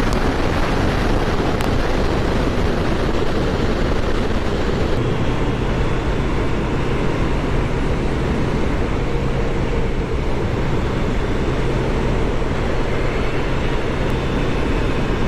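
Wind rushing over the microphone of a moving motorcycle, with the engine's steady low drone underneath that becomes clearer about five seconds in.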